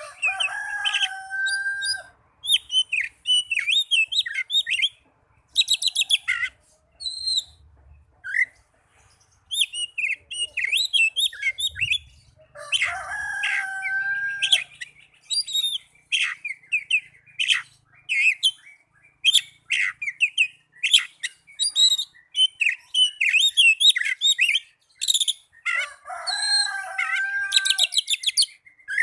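Oriental magpie-robin (kacer) singing a fast, varied song of chirps, trills and whistles. Three times, about every 13 seconds, a lower, drawn-out call about two seconds long sounds within the song.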